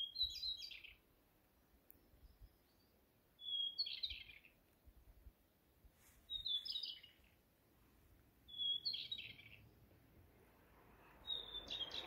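A songbird singing the same short phrase five times, about every two and a half to three seconds: each phrase is one even whistled note followed by a quick jumble of higher and lower notes.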